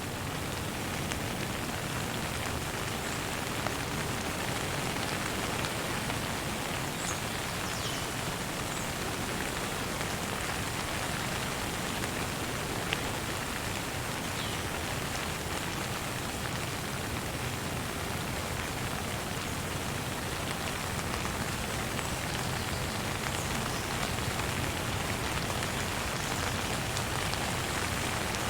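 Steady rain falling and pattering on surfaces, with a few faint, short bird chirps heard now and then above it.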